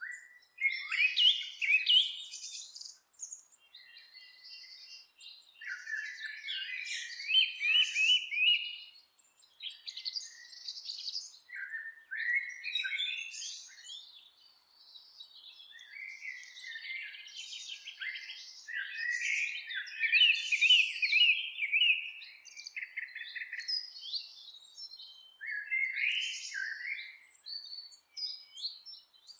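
Several songbirds singing in overlapping phrases of chirps and quick trills, one song following another with hardly a pause.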